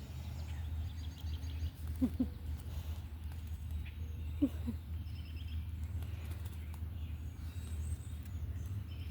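Faint, high little bird chirps in short runs over a steady low rumble, with two brief low sounds about two and four and a half seconds in.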